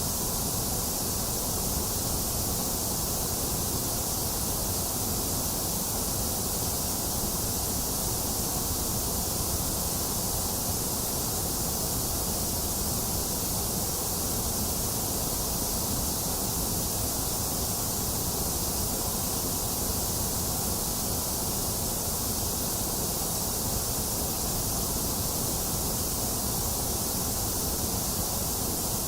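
Steady generated white noise: an even, unchanging hiss.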